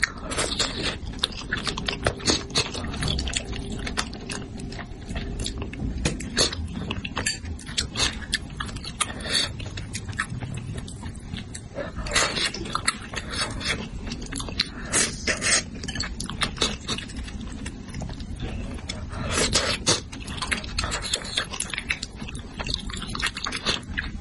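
Close-miked chewing and mouth smacking while eating spicy braised fish: a continuous run of wet clicks and smacks.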